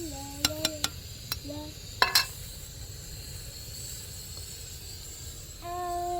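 A young child's high voice making drawn-out vocal sounds, at the start, briefly in the middle and again near the end, with a few sharp clicks or knocks in between and a steady low rumble underneath.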